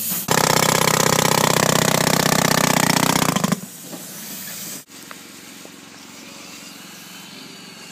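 Jackhammer breaking up old concrete: a loud, rapid, continuous hammering for about three seconds that then stops, leaving a quieter steady machine hum.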